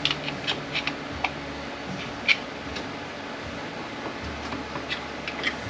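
Scattered light metallic clicks and taps of hand tools and parts on a ZF 9HP48 automatic transmission as a stubborn part is worked loose, the loudest tap a little past two seconds in, over a steady low hum.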